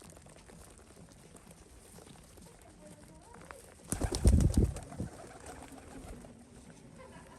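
A bird cooing against a quiet outdoor background. About four seconds in there is a loud, brief burst of close rustling and knocking that lasts about a second.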